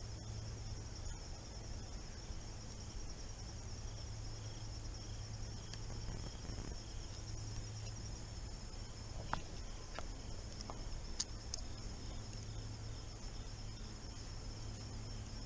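Crickets chirping in a steady high-pitched chorus over a low steady hum, with a few short sharp clicks about nine to eleven seconds in.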